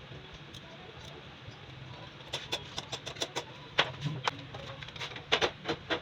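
An irregular run of sharp clicks and knocks, as from hand tools and parts being handled, starting about two seconds in, with a few louder knocks near the end.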